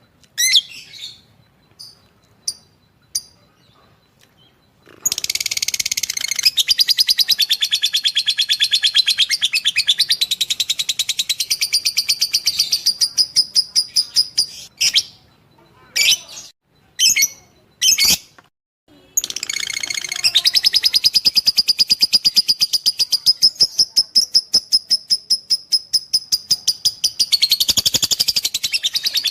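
Lovebird chattering: a few single chirps, then long runs of rapid, continuous high chatter, broken into short separate calls midway before another long run begins.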